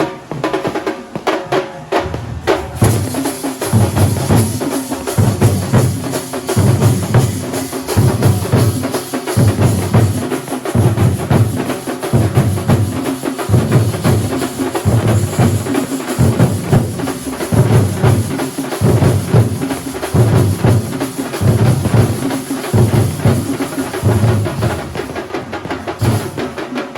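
Kerala thambolam drum troupe playing a driving rhythm: deep bass-drum strokes a little under once a second, coming in about two and a half seconds in, under fast, dense drumming.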